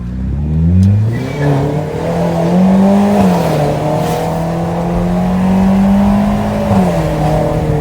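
Citroën DS5's 1.6 THP turbocharged four-cylinder, with a downpipe and a straight pipe at the rear, accelerating: the engine note climbs in pitch over the first three seconds, dips a little, holds steady, then dips again near the end. It is loud and very shrill ("muito forte e estridente").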